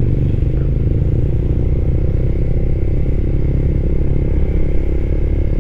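Suzuki Raider 150 Fi's single-cylinder four-stroke engine running steadily as the bike is ridden at an even pace, nearly warmed up.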